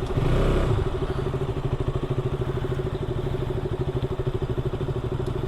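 Motorcycle engine idling with a rapid, even pulse, after a brief rev in the first second.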